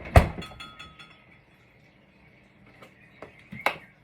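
A sharp knock about a fifth of a second in, then a few light taps and clicks and another tap near the end: kitchen things being handled and set down on a counter while mixing biscuit dough.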